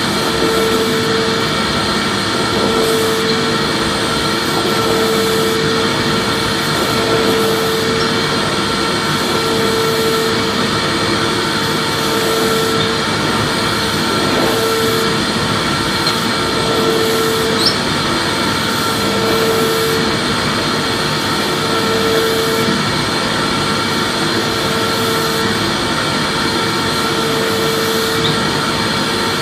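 Vacuum cleaner motor running steadily: a continuous whooshing hiss with a constant whine, and a hum that swells and fades about every two seconds.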